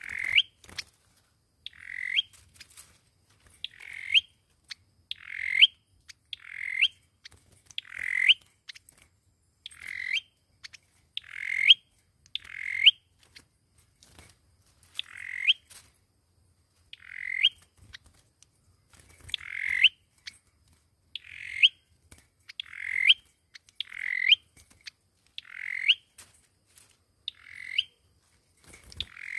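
Sâu dừa bird calling over and over, about one call every second and a half. Each call is a short note that rises and ends in a sharp upward flick.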